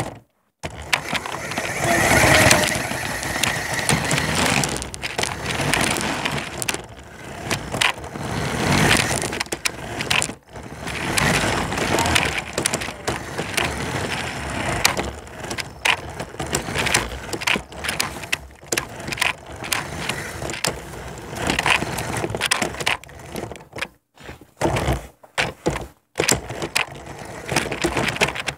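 Toy remote-control car driving across the floor, its wheels and plastic body rattling and clattering, with repeated knocks as it bumps into obstacles.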